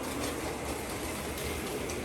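Carrera Digital 132 1/32-scale slot car race trucks running laps on plastic track: a steady whir of their small electric motors and a rattle of the cars in the slot, with a few clicks.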